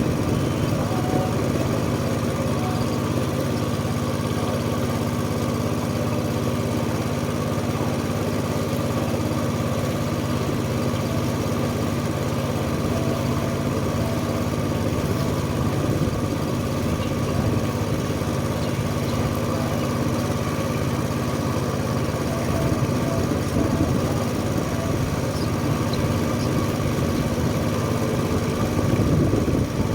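Small tourist boat's engine running steadily as the boat cruises across the lake.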